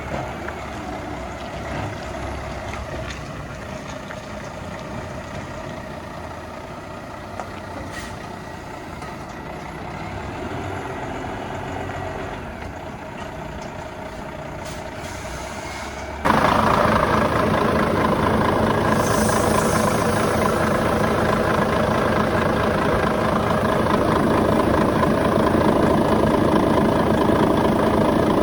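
Volvo FH 500 truck engine running steadily at idle. About sixteen seconds in, the sound abruptly becomes louder and fuller and stays that way.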